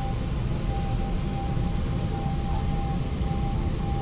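Cabin of a 36WED electric multiple unit running along the line: a steady low rumble of the train in motion, with a thin high-pitched tone that breaks off and comes back.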